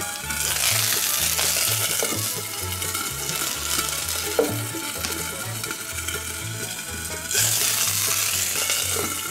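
Bacon-wrapped fish sticks sizzling on a hot steel fire plate. The sizzle swells suddenly about half a second in and again near the end, as the stainless-steel cloches are lifted off and steam escapes. A bass line of background music runs underneath.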